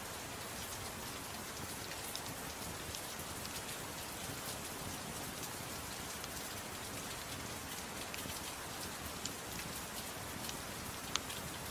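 Steady soft rain falling, with a few sharp crackles from a wood fire, one louder near the end.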